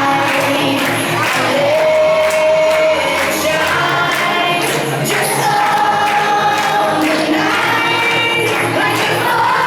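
Music with a group of voices singing together over a steady beat, the sung notes held and sliding.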